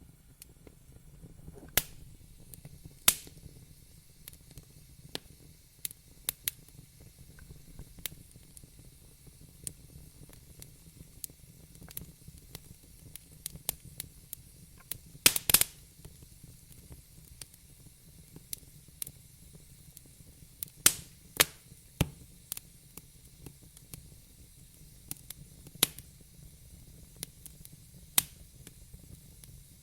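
Wood fire crackling in a fireplace: irregular sharp pops and snaps, a few much louder than the rest, over a faint low hum.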